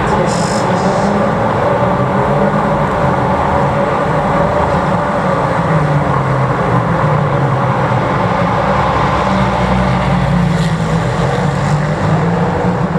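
Race car engines running on the track: a loud, steady engine drone that holds without a break and eases off slightly near the end.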